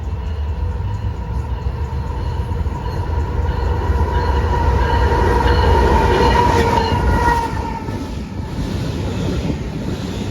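A train passing with a steady low rumble. A steady high tone rides over it, growing louder towards the middle and fading away about eight seconds in.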